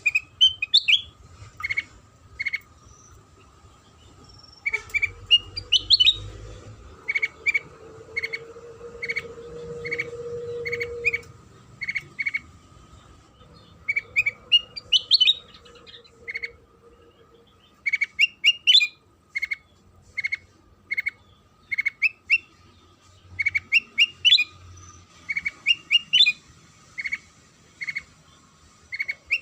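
Kutilang sutra songbird calling: short, sharp chirps about two a second, broken every few seconds by quick rising twittering phrases. This is a lure recording meant to set cage birds singing. A faint steady tone runs underneath.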